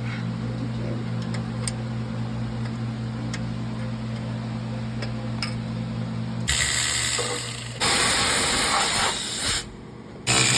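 A steady low hum with a few light ticks, then loud hissing spray that starts about six and a half seconds in, grows louder, cuts off, and starts again near the end.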